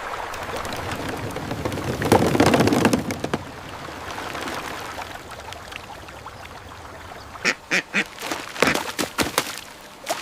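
Splashing water, loudest about two seconds in, followed near the end by a quick run of short, duck-like quacks.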